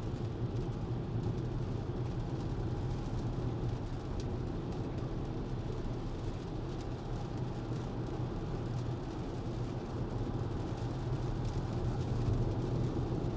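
Steady road and tyre noise inside an electric Tesla's cabin at highway speed on a wet road, a low even hum with no engine sound.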